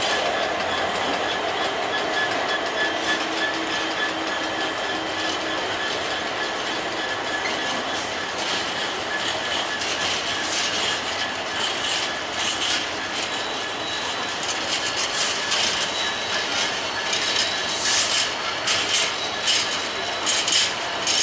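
A train running on the rails, its wheels clicking over rail joints, the clicks coming thicker and louder through the second half. A thin, steady wheel squeal runs underneath.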